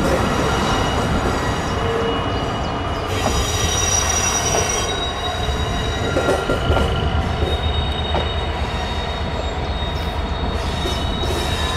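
Train running past with its wheels squealing against the rails: several thin, high squeal tones held over a steady low rumble.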